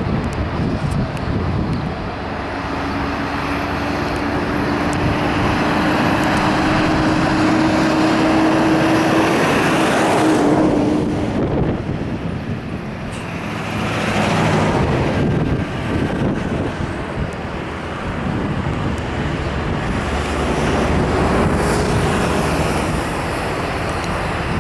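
Airbus A320-family jet engines running at takeoff power: a loud, steady roar with a faint engine tone that rises slightly over the first ten seconds.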